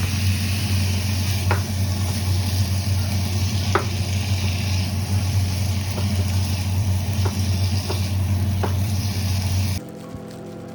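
Food sizzling in a hot frying pan, a steady hiss with a few scattered pops, cutting off suddenly near the end.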